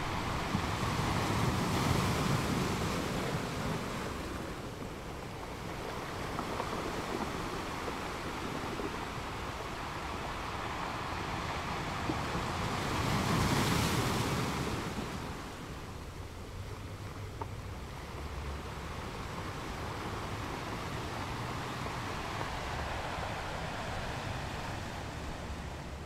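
Sea waves washing onto a shore, a steady rush that swells twice as larger waves break, about two seconds in and again about halfway through.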